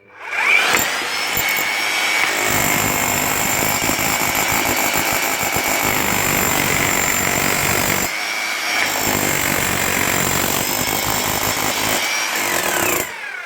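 Bosch 11318EVS demolition hammer switched on and spinning up, then hammering with a rapid stream of blows. The blows break off for a moment about eight seconds in, resume, and the motor winds down near the end. The hammer mechanism is working again after two new O-rings and oil.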